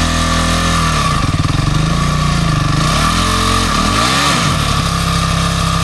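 Dirt-bike engine running hard, its revs rising and falling several times as the bike is worked up a steep, rocky creek bank.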